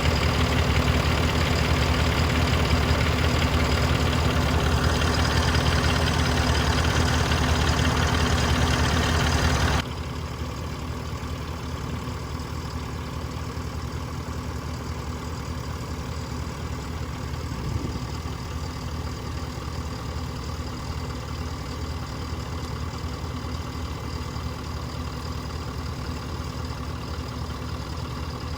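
Engine of a piece of farm machinery running steadily at idle. About ten seconds in the sound drops abruptly to a quieter steady run.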